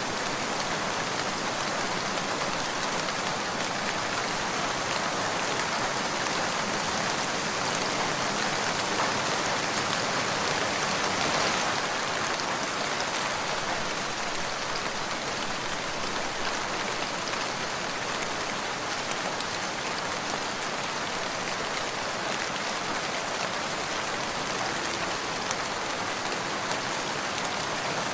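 Steady rain falling on a surface, an even hiss of drops, a little heavier about ten seconds in.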